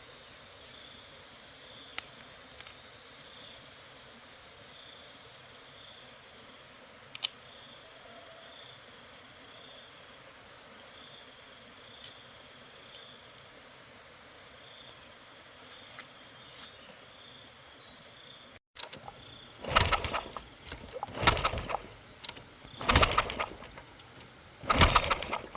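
Insects, likely crickets, chirping in a steady, even rhythm with a faint high steady whine. Near the end come four loud, rough bursts of about a second each, the loudest sounds here.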